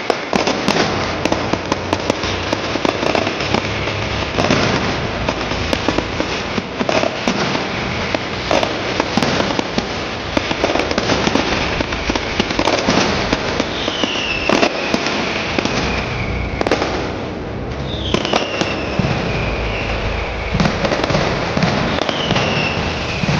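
A dense, unbroken barrage of firecracker bangers and fireworks, crackling and banging rapidly and continuously. Three times in the second half a whistle falls in pitch over a couple of seconds.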